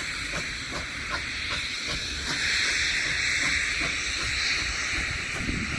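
Steam locomotive letting off a steady hiss of steam, with a low rumble underneath.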